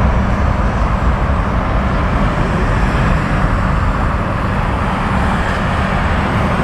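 Jet engines of a Boeing 777 freighter (GE90s) running loud and steady at close range: an even roar heavy in the lows, with no pitch changes or breaks.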